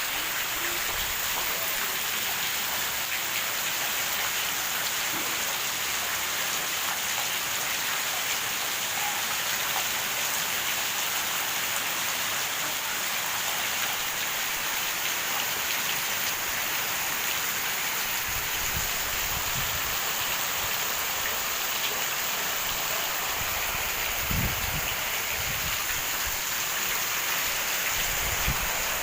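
Steady rain falling and pattering on surfaces. A few brief low rumbles come through in the second half.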